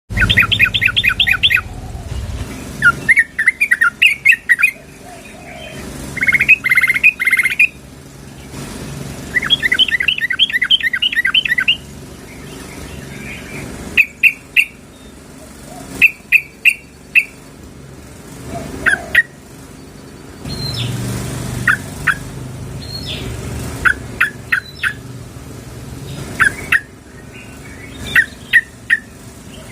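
Yellow-vented bulbul (trucukan) calling, given as a female calling a male: rapid chattering runs of notes lasting a second or two, repeated several times, then short clusters of sharp single notes in the second half.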